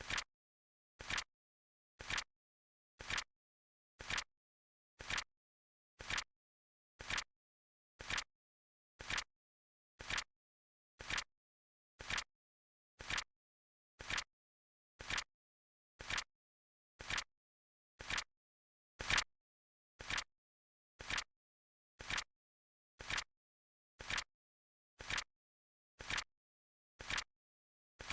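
Flip clock sound effect ticking: a short, crisp flip-click once a second, evenly spaced with silence between. One click about two-thirds of the way through is a little louder.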